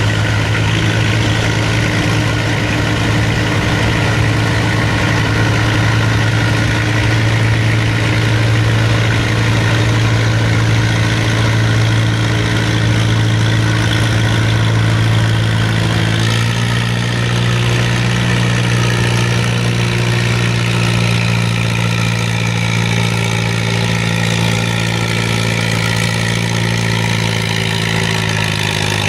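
Large engine idling loudly and steadily, typical of a modified pulling tractor waiting at the track; its note shifts slightly about halfway through.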